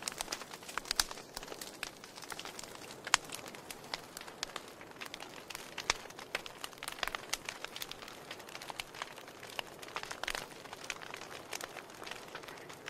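Wood log fire crackling: irregular sharp pops and snaps, a few louder than the rest, over a soft steady hiss.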